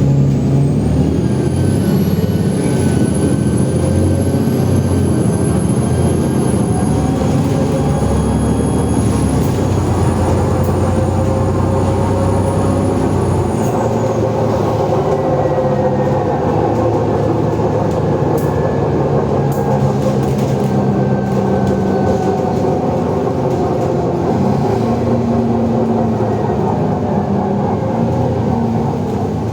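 Alexander Dennis Enviro400 double-decker bus under way, its Cummins ISLe5 diesel pulling hard. The turbocharger whistles high, rising over the first two seconds, holding and then stopping about fourteen seconds in. A loud drive-axle whine glides slowly under the engine in the second half.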